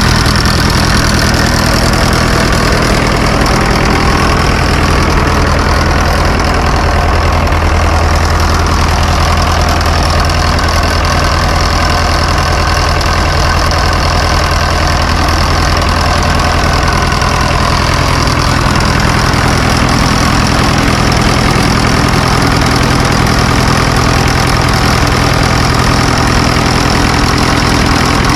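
1954 Fordson tractor engine running steadily at idle. Its low note grows stronger for about ten seconds in the middle, then settles back.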